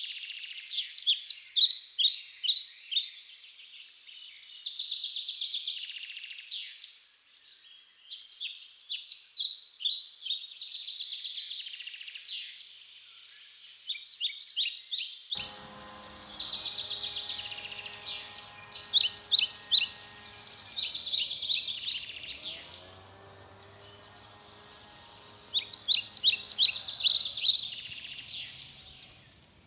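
A songbird singing outdoors in repeated phrases of rapid chirping trills, with short pauses between them. A faint low hum joins about halfway through.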